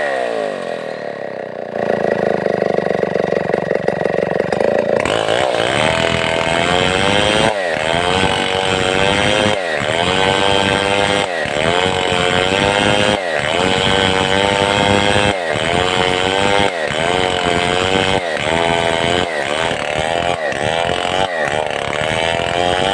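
Stihl 070 two-stroke chainsaw running. Its revs drop sharply at the start and hold lower for a few seconds, then rise and fall in a steady cycle about every two seconds, as if the saw is being worked under load.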